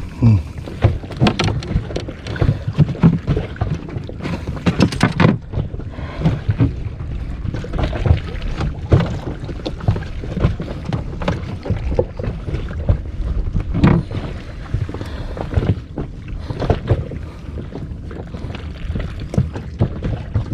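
Water slapping and knocking against a small inflatable boat, with wind on the microphone and many irregular knocks.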